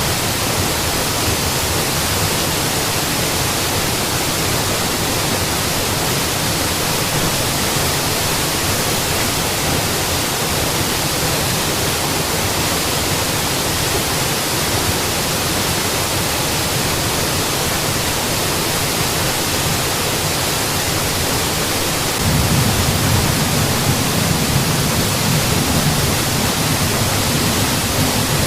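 Mountain waterfall: a steady rush of falling water, its low rumble growing a little louder about 22 seconds in.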